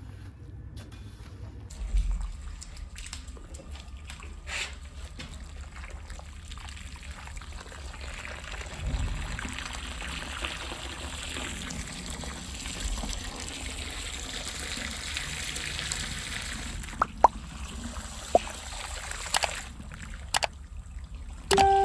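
Running water trickling and splashing, over a steady low hum, with a few sharp clicks near the end.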